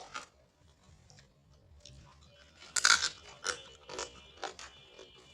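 Close-up eating sounds: chewing with a series of short crunches and wet smacks, the loudest cluster about three seconds in.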